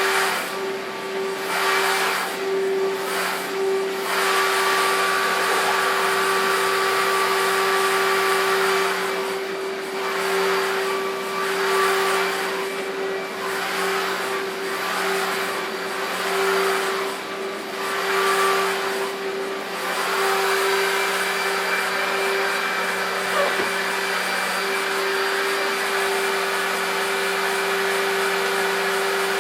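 Electrolux Contour Z1501 upright vacuum cleaner with a 1300 W motor, running steadily with a constant motor hum and a rush of air. For stretches the hiss of the air dips and returns about once a second.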